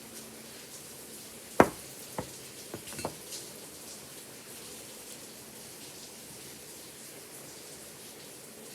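Steady hiss of rain. A bell's last low hum dies away at the start. A single sharp knock comes about a second and a half in, followed by a few lighter clicks, with no bell ringing.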